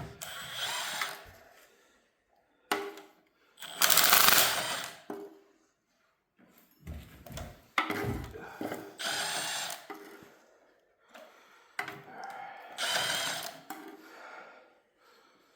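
A power tool run in short bursts of about a second, five or so times, with metallic clicks and knocks between, as fasteners are worked off a Chevy 350 engine.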